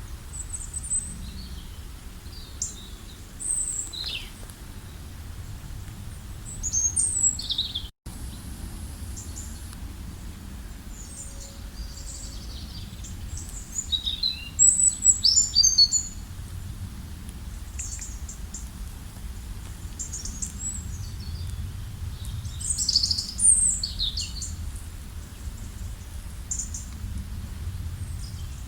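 Several small birds chirping and calling in short, high, quick phrases, busiest about halfway through and again near the end, over a steady low rumble. The sound drops out for an instant about eight seconds in.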